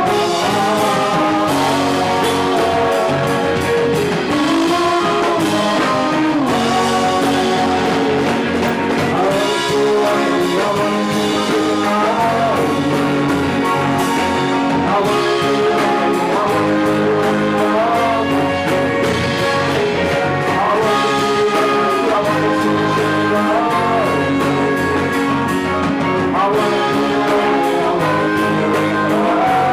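Live band playing a song, loud and unbroken, with singing over the instruments.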